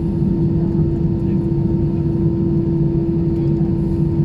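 Steady cabin noise inside an Airbus A320-200: an even low hum of the engines and air system, with one constant mid-pitched drone over it.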